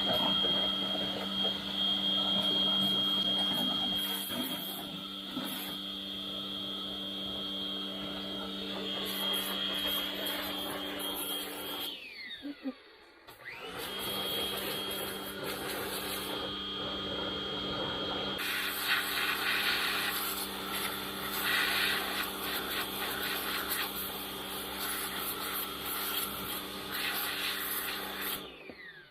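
An electric motor runs with a steady whine. It shuts off about twelve seconds in and spins down, starts again a second and a half later, and shuts off and spins down again near the end.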